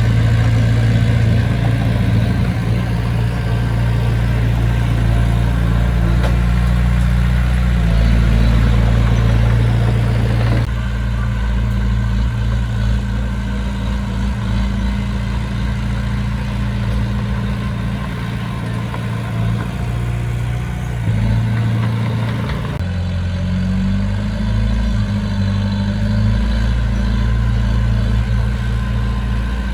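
Diesel engine of a heavy machine running steadily, mostly at idle, its note changing abruptly a couple of times.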